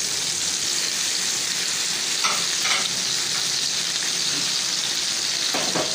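Chopped onion, tomato and capsicum sizzling in hot oil with fried chicken pieces in a non-stick frying pan: a steady frying hiss just after the vegetables went in, with a few faint crackles.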